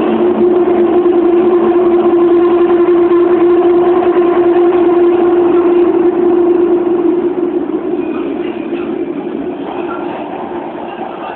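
Beijing Subway Line 4 train running, heard from inside the car: a steady motor whine over the rolling noise. The whine fades out about seven seconds in and the whole sound grows quieter.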